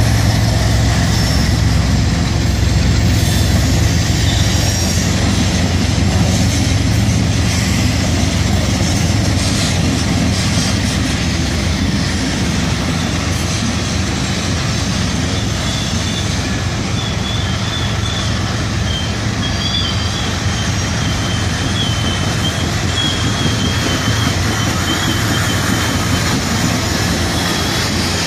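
Loaded coal train's hopper cars rolling past on a sharp curve, a steady heavy rumble of wheels on rail that eases slightly as the train moves off. From about halfway through, a thin, wavering high squeal joins in: the wheels squealing against the rails on the curve.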